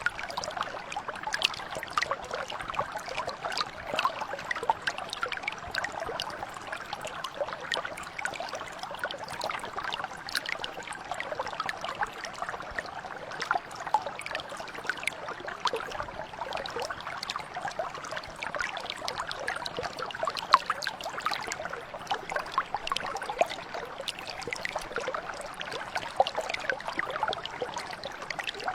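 Small stream or mountain brook flowing and burbling over stones, a steady babble of many small splashes and trickles.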